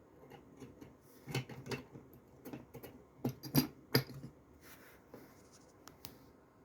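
Handling noise from a small die-cast model truck: light clicks, scratches and taps, with a few sharper knocks about three and a half to four seconds in.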